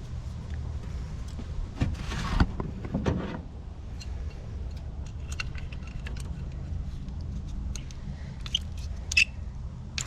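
Metal pipe fittings clinking and scraping as they are handled and cleaned, with sharper knocks about two and nine seconds in, over a steady low hum.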